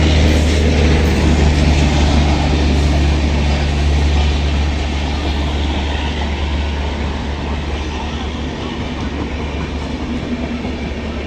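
Train running along the track, a loud steady deep rumble of the train and its wheels on the rails that slowly fades in the second half.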